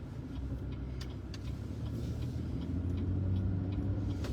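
Car turn signal ticking steadily, heard inside the cabin over the low engine and road rumble; the engine pulls harder about two-thirds of the way through as the car makes the turn.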